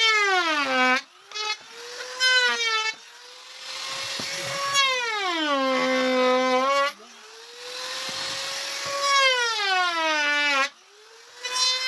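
High-speed electric power tool cutting wood in repeated passes. Its whine drops sharply in pitch and gets louder each time it bites in, then climbs back as it runs free, about four times.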